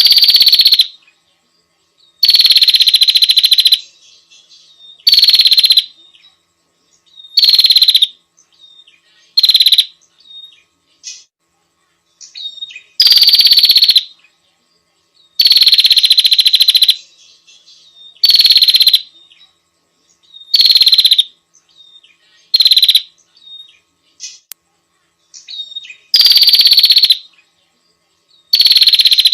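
A small songbird's recorded song: loud, buzzy trills about a second long, repeated a dozen times with short gaps, each starting with a slight downward slide in pitch. Soft chirps come in between the trills.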